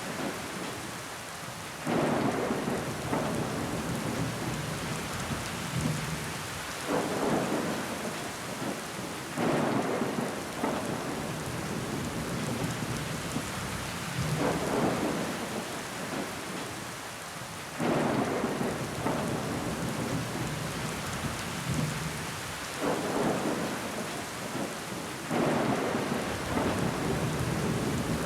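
Steady rain on window glass, with water running down the pane. About every two to five seconds it swells suddenly louder for a second or two.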